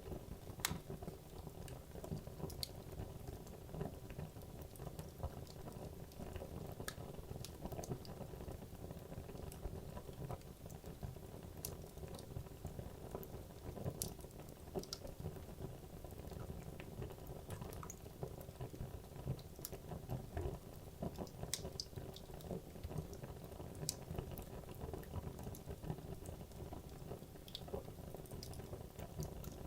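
Wood logs burning in a fireplace: a steady low rumble of flame with irregular sharp crackles and pops scattered throughout, a few louder than the rest.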